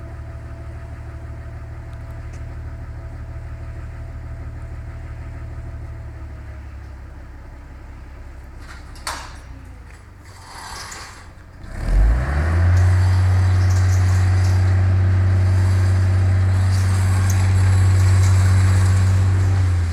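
AEC Merlin bus's diesel engine idling steadily, then slowing and quietening. About twelve seconds in the revs jump sharply and hold high and steady, with the accelerator stuck down on the floor, and it drops back only at the very end. There is a clunk about nine seconds in.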